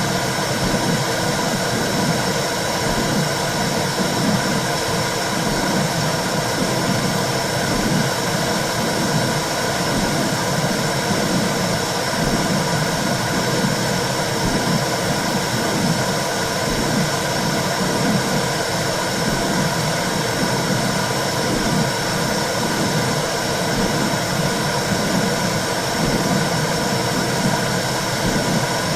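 Womb sound for calming a baby: a steady whooshing noise with a slow, regular pulse like a heartbeat beneath it.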